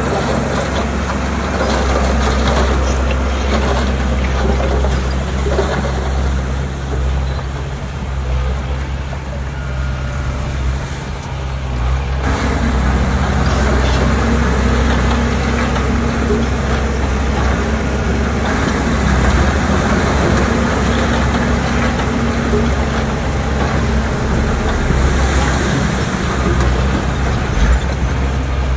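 Heavy diesel engine of earthmoving machinery running steadily under load, its note rising slightly about twelve seconds in.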